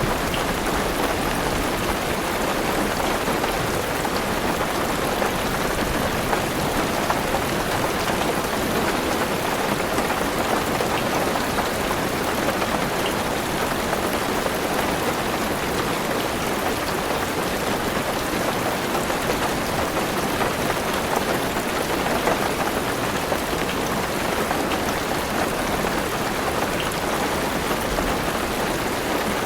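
Heavy rain falling steadily on a car's roof and windows, an even, unbroken patter with fine scattered drop ticks.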